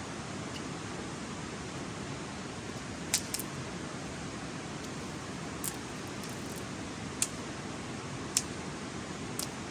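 Steady rush of a river, with a handful of short, sharp clicks or snaps scattered over it, two close together about three seconds in.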